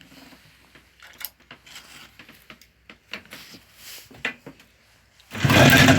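Scattered quiet clicks and knocks, then about five seconds in an IZh Jupiter 5 two-stroke twin-cylinder motorcycle engine starts and runs loudly and steadily.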